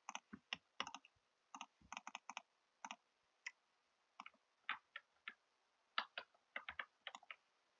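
A series of light, irregular clicks and taps, some single and some in quick clusters of two to four.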